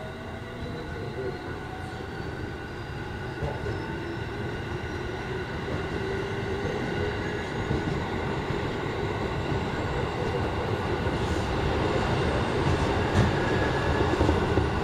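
Musashino Line electric train picking up speed. The motor whine rises in pitch and the rumble of the wheels on the rails grows steadily louder.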